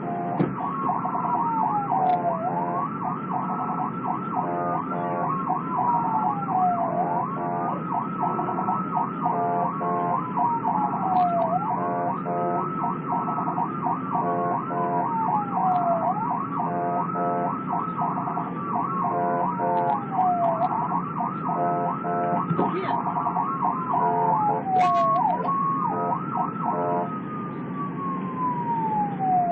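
Police car siren on a slow wail, rising and falling about every four and a half seconds. A second siren cycles much faster over it, with a steady hum of vehicle noise underneath.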